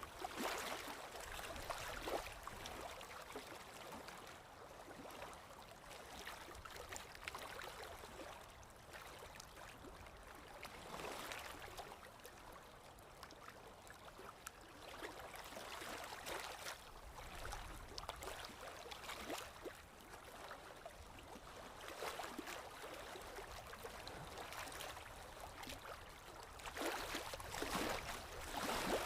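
Paintbrush strokes swishing and scrubbing on canvas, coming at irregular intervals, with a cluster of louder strokes near the end.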